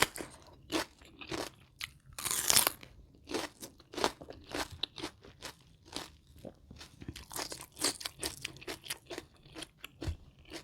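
Close-miked crunching and chewing of crisp food: two loud crunchy bites, one at the start and one about two and a half seconds in, then a run of short crisp chews.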